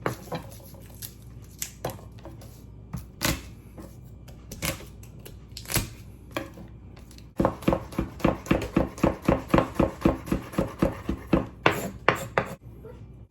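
Kitchen knife chopping garlic: scattered single cuts at first, then from about seven seconds in a fast, even run of about four to five chops a second, ending with a few last strokes.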